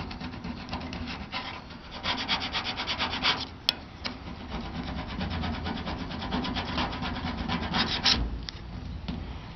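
Quick, repeated rubbing strokes on a surface, like hand sanding, in two runs with a short break about four seconds in. A sharp click comes just before the break.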